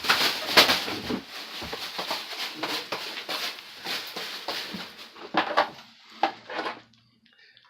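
Plastic bag rustling and crinkling in bursts as a trapped pigeon thrashes inside it. The rustling is busiest at first, breaks into a few separate bursts after about five seconds, and stops near the end.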